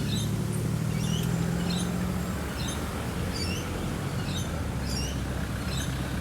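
Level-crossing electronic bells (General Signals e-bells) ringing during an activation, short high strokes about twice a second. A low steady hum fades out about two seconds in.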